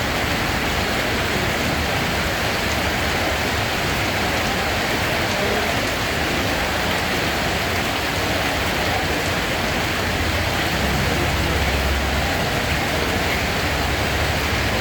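Steady rain falling, an even hiss of drops hitting a surface that keeps the same level throughout.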